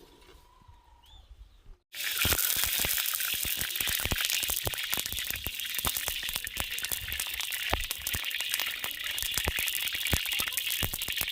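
Food frying in a hot pan: a steady loud sizzle thick with rapid crackles, which starts abruptly about two seconds in. Before it, a few faint bird chirps.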